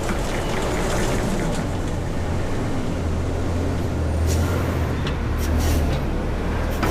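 Front-load garbage truck engine running steadily with a low hum, with a few short sharp sounds in the second half.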